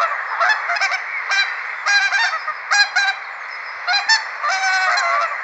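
Swans honking: many short, overlapping calls repeating irregularly over a steady background hiss.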